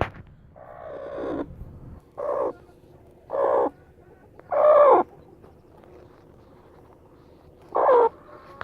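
Broody mother hen calling about five times, each a short call that falls in pitch, the first the longest, spaced irregularly one to three seconds apart.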